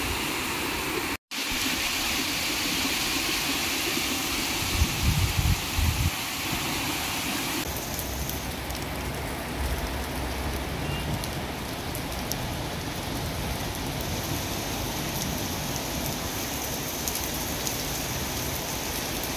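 Heavy rain falling, a steady hiss of rain on the road and roofs. A few low rumbles come around five seconds in, and the sound cuts out for a moment just after a second in.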